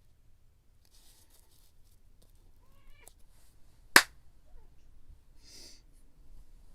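A short rising call, like a cat's meow, about two and a half seconds in. A second later comes a single sharp, loud click or tap, the loudest sound, and near the end a brief papery rustle.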